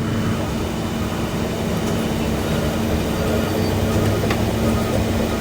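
Garbage truck running steadily, a constant low mechanical drone with a steady hum.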